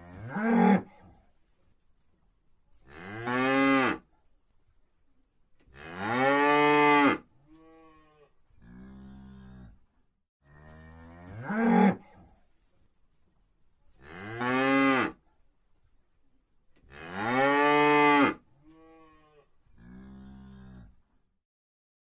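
Cattle mooing: three loud drawn-out moos, each rising and falling in pitch, followed by two quieter, shorter lows. The same run of five calls then comes again.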